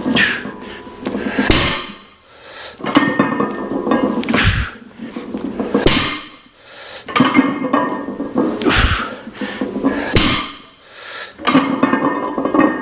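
A barbell loaded to 245 lb being lifted for repetitions, one every three seconds or so, the iron plates clanking and thudding with each rep along with the lifter's hard breathing.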